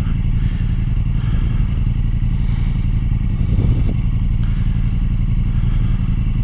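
Motorcycle engine running steadily at low speed, with light clattering over it.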